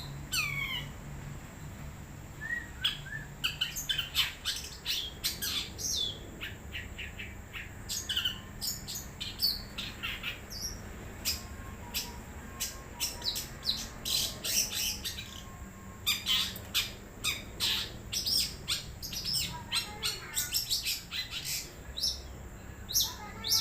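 Long-tailed shrike singing a rapid, varied run of sharp chirps and short down-slurred notes in bursts, thinning out for a few seconds midway.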